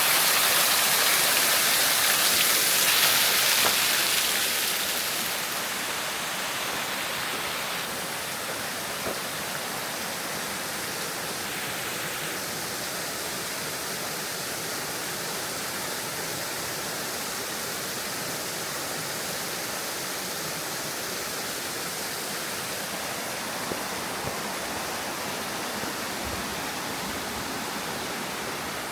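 Steady rush of flowing, falling water, loud for the first few seconds, then dropping to a softer, even rush.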